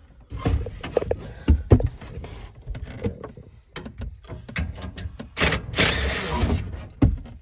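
A series of irregular knocks and clunks, with a longer scraping rustle about five and a half seconds in, lasting about a second.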